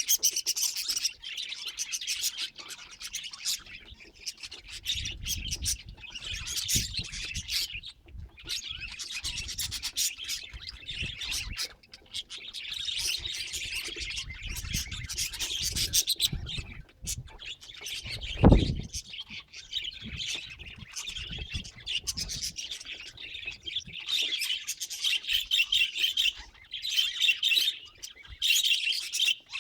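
Budgerigars chattering and warbling continuously in dense, rapid chirps. Low rubbing and knocking noises run through the middle, with one loud thump about two-thirds of the way in.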